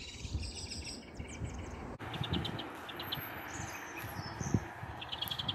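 Small birds chirping in quick runs of short, high repeated notes over a low, uneven rumble. The background changes abruptly about two seconds in.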